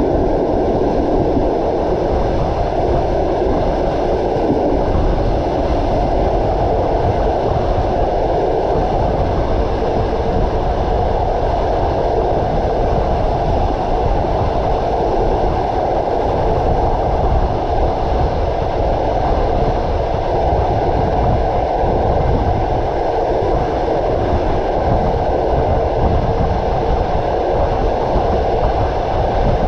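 Train running steadily along the track: a continuous low rumble and rattle of wheels on rails.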